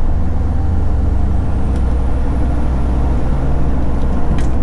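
Scania V8 diesel truck engine running under way, heard from the cab as a steady deep rumble with a faint thin high whine over it. A couple of sharp clicks come near the end.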